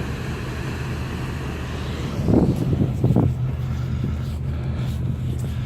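Steady low engine drone with an even hum, with a couple of wind buffets on the microphone about two and three seconds in.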